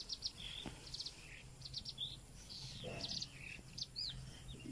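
Small birds chirping: a scattered string of short, high chirps and quick trills.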